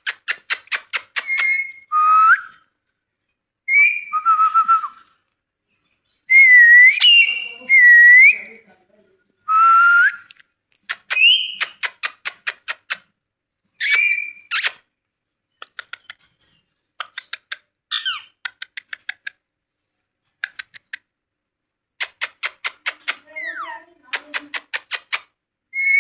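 Ringneck parrot whistling short notes that swoop up and down, between runs of rapid clicking.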